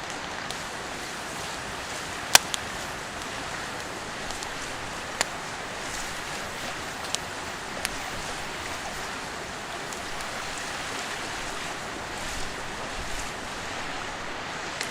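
Steady rushing of a clear mountain stream, with a few sharp snaps over it, the loudest about two seconds in.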